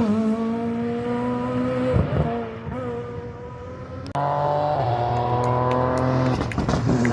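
Rally car engine at high revs, pitch climbing, then lifting off with a few sharp pops about two seconds in and fading. Shortly after four seconds another rally engine comes in suddenly and runs at steady high revs, with crackles and clicks near the end.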